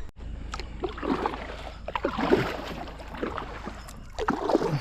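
Kayak moving on still water: splashing and dripping with a few light knocks on the hull.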